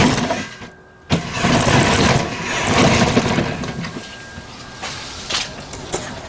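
A 1/8-scale RC truck's motor running, dropping out about half a second in and starting up again about a second in.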